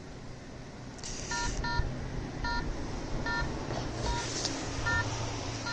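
Short electronic beeps from an EMF-meter app on a smartphone, about seven in a row starting about a second in, roughly one every 0.8 s. Under them is a low hum of distant road traffic.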